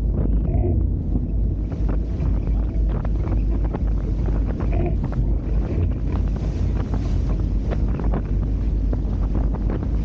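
Heavy wind buffeting the microphone as a Hobie Tiger F18 catamaran sails, with a steady low rumble. Quick slaps and splashes of water against the hulls are scattered throughout.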